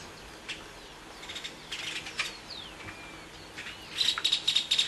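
Birds chirping: scattered short high chirps and a few squeaky falling notes, then near the end a fast, even run of sharp high chips.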